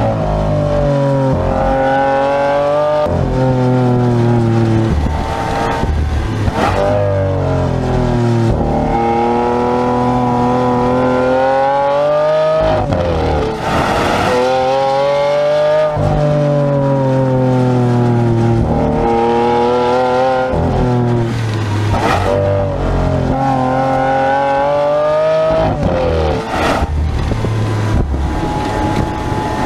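Lamborghini Aventador's V12 engine heard from inside the cabin, pulling hard through the gears: its pitch repeatedly climbs through the revs and then breaks off at an abrupt gear change, many times over.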